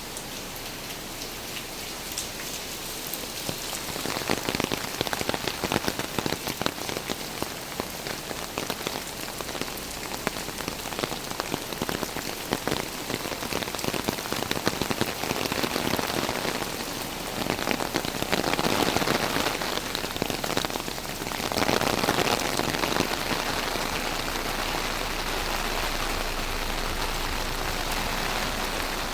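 Rain falling steadily, with countless individual drops striking close by. It grows louder about four seconds in and swells again for a few seconds past the middle.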